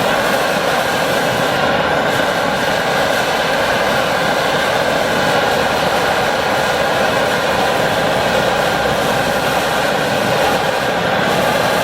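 Phoebus 725 pressurized gasoline roarer stove burning at full flame with a steady roar.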